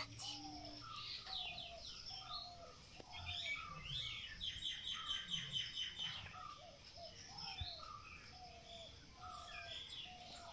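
Several birds calling: a short falling whistled note repeated about once a second, with a fast high trill twice, the longer one from about four to six seconds in.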